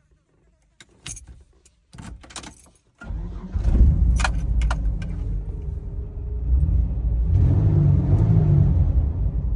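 Car keys jingling with a few clicks, then about three seconds in the car's engine starts with a quick flare and settles into a steady idle, rising briefly again near the end.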